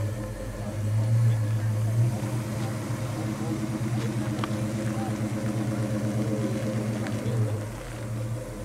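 1970 Pontiac GTO Judge's V8 running as the car creeps along at low speed, a steady pulsing rumble that swells briefly about a second in.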